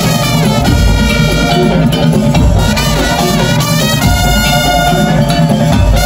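Madurese daul (tong tong) ensemble playing loudly: heavy drums and percussion under a sliding, pitch-bending melody line.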